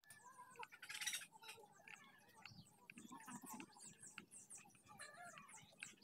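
Faint birds chirping, many short quick chirps, with a brief rustle about a second in.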